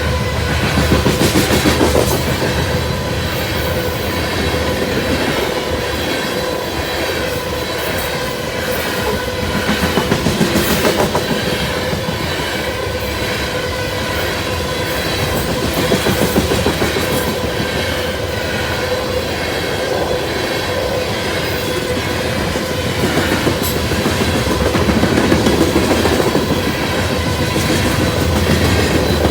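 Grain train rolling past, its wheels clacking over rail joints in recurring groups of clicks over a steady rumble.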